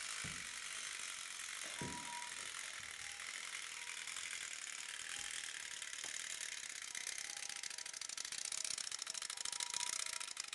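Clockwork spring motor and gears of a Kovap Zetor 25 tinplate toy tractor whirring with a fast, even ticking that grows more distinct over the last few seconds. A couple of soft knocks come in the first two seconds.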